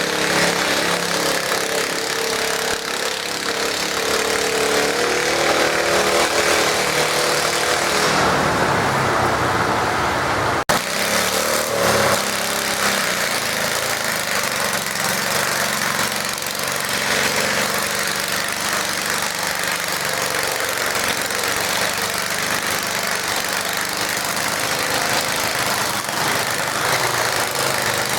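Garden tractor engine running hard under load while pulling a weight sled, its pitch shifting as it works. About ten seconds in the sound breaks sharply and then carries on.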